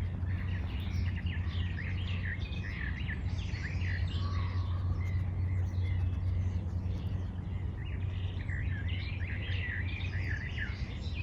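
Small birds chirping in quick runs of short notes, in two bouts, about a second in and again near the end, over a steady low rumble.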